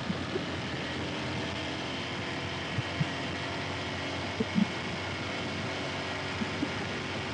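Motorcycle riding at a steady pace, its engine hum blended with wind and road noise, with a few short low thumps now and then.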